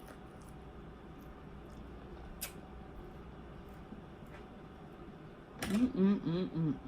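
Quiet room tone with a couple of faint light clicks, then near the end a person's voice making a run of short wordless humming sounds, each rising and falling in pitch.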